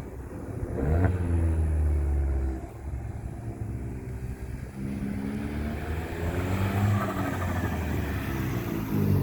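Fiat 500 Turbo's turbocharged four-cylinder engine, with an aftermarket intake and exhaust, revving up and easing off several times: a climb about a second in, a drop off the throttle about halfway, and a slower climb again toward the end.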